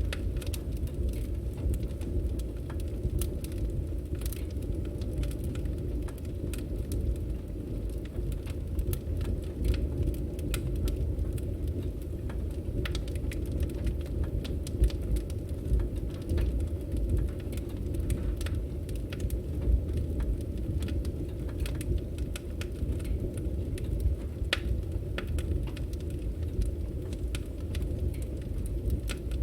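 Firewood burning: irregular sharp crackles and pops scattered throughout over a steady low rumble of the fire.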